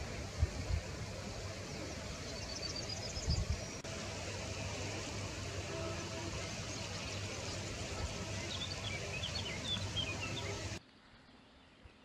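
Outdoor field ambience: birds singing over a steady hiss, with a quick run of short high repeated notes two to three seconds in and a scatter of chirps near the end. A few low wind bumps hit the microphone in the first four seconds. The sound drops to near silence about a second before the end.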